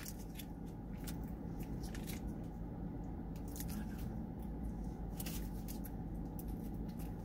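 Close-up eating sounds: chewing of chili cheese fries, with scattered small clicks and crackles from a plastic fork scooping in a cardboard fry box, over a steady low hum.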